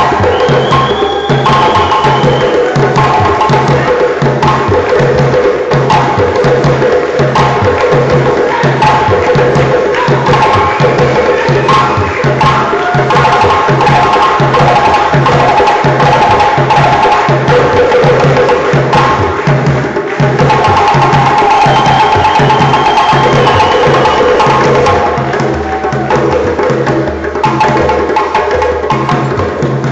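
African percussion ensemble of hand drums playing a steady dance rhythm, with a deep drum beating about twice a second under sharp, fast slaps.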